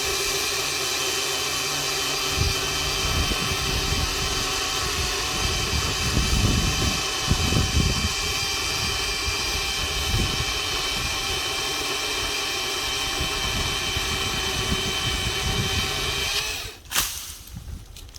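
Stihl HTA 85 battery pole saw running flat out, its chain cutting a large limb: a steady electric whine with uneven low rumbling as the chain bites into the wood. The motor stops about 16 seconds in, followed by a single loud thump.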